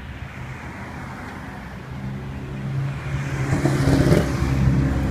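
A vehicle engine running with a steady low hum that grows louder over a few seconds. A hiss swells to a peak about four seconds in, then eases.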